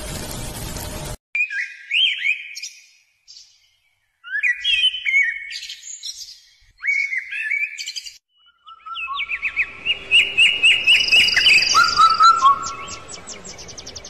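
Songbirds singing: short chirping, whistled phrases with silent gaps between them, then from about nine seconds a busier stretch of rapid repeated notes and trills over a faint hiss. A steady hiss at the start cuts off abruptly about a second in.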